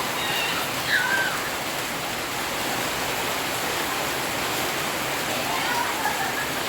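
Heavy rain pouring down in a steady hiss, with children's high-pitched voices calling out briefly about a second in and again near the end.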